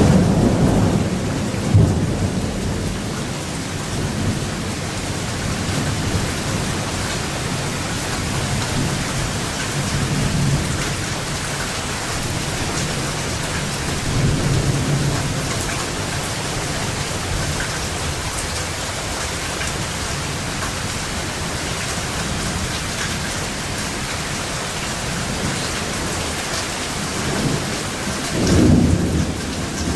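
Steady rain falling with thunder rolling through it: a sharp clap right at the start and another about two seconds in, softer rumbles through the middle, and another loud rumble near the end.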